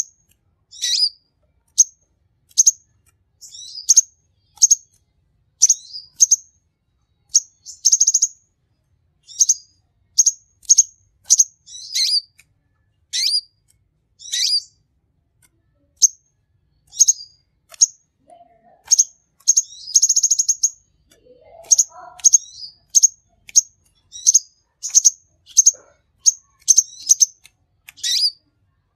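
Kolibri ninja sunbird singing: a lively series of short, sharp, high chirps, one or two a second, broken by a couple of longer, fast buzzy trills about 8 and 20 seconds in.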